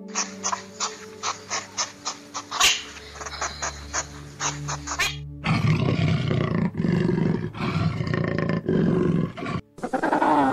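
A run of sharp clicks, about four or five a second, for the first five seconds, then a jaguar growling for about four seconds, louder and low, with short breaks, cutting off near the end.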